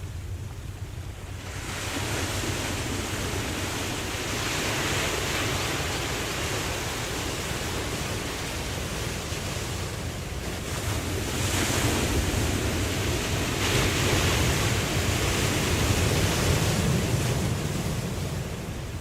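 Ocean waves breaking and washing on a beach in slow, irregular surges, with a steady low rumble beneath. The surf swells about two seconds in, peaks several times, and eases near the end.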